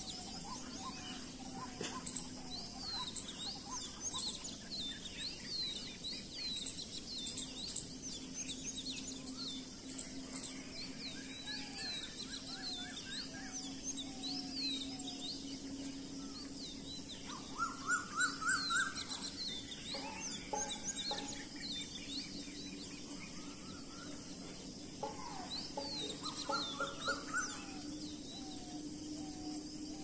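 Many small birds chirping and calling, with quick, repeated high chirps throughout and a run of rising notes just past the middle and again near the end. A faint steady hum lies underneath.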